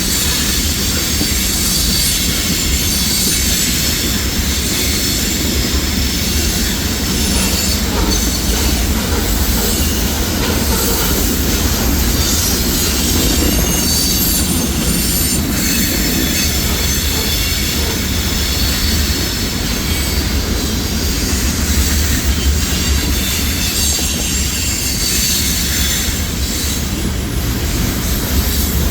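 CPKC freight train of grain hopper cars rolling past: a steady low rumble of steel wheels on rail, with high, thin squealing tones from the wheels held throughout.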